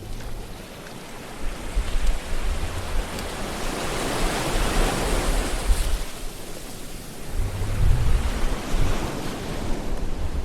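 Ocean surf: a steady wash of waves, one swelling to a peak about halfway through and falling away, with low rumbles about three-quarters of the way in.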